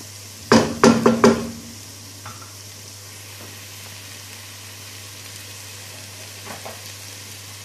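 Tomato, onion and spice mixture sizzling steadily in a frying pan, broken by a short clatter of loud knocks about a second in. A steady low hum runs underneath.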